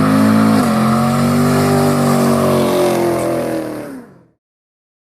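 A car engine held at high revs, its pitch sagging slightly, then fading out about four seconds in.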